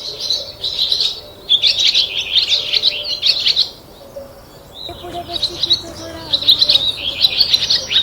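Small birds chirping in rapid, busy bursts: two spells of chirping with a short lull about four seconds in.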